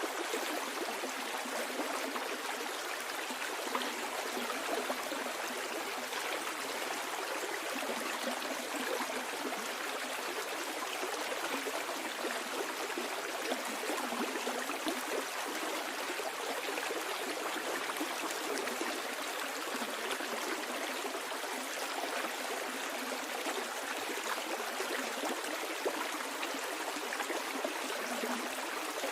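A stream of water flowing steadily, rushing and burbling over stones, with small splashes and trickles.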